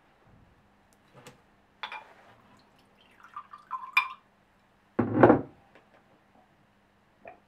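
Spirit poured from a small glass bottle into a glass tumbler: glass clinks, a short pour lasting about a second, then a heavy thud about five seconds in.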